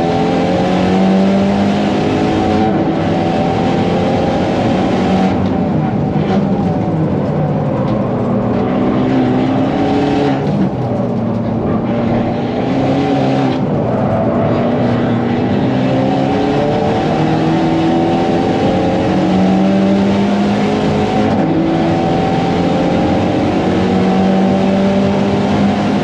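Hyundai i30N Fastback's turbocharged 2.0-litre four-cylinder, fitted with an aftermarket downpipe and ECU flash, heard from inside the cabin on a hot lap. Its pitch climbs again and again under full throttle, and several times the note falls back and the noise thins as the driver lifts and brakes for corners.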